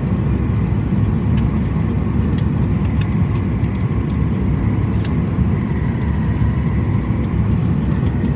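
Inside the cabin of a Southwest Airlines Boeing 737 during landing: a steady low rush of jet engines and airflow, with no break or change in level.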